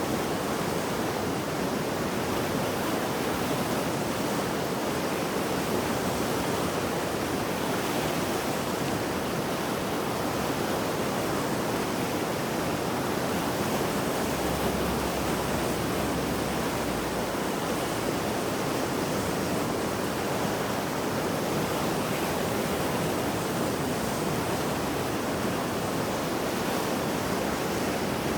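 Mountain river in flood after heavy rain, rushing water making a steady, dense roar.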